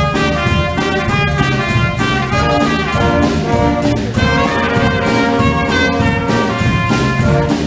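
Middle school band playing live, with brass (trumpets and trombones) carrying sustained notes over a steady drum and cymbal beat.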